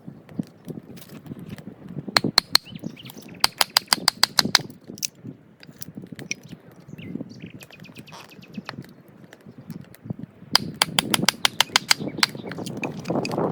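Dry wood snapping and crackling: quick runs of sharp cracks in three bursts, over soft low rustling.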